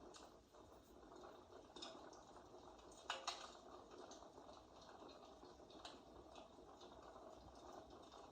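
Fireplace crackling, faint: a steady soft hiss with scattered small crackles and pops, and a louder snap about three seconds in.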